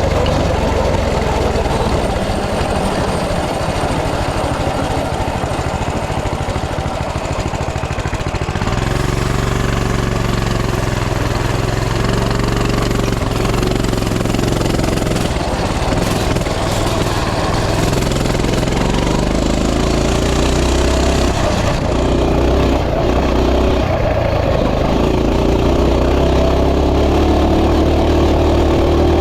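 Coleman CT200U mini bike's small single-cylinder four-stroke engine running under throttle while ridden over rough rocky ground; the engine note changes about nine seconds in and then holds steadier, rising and falling with the throttle.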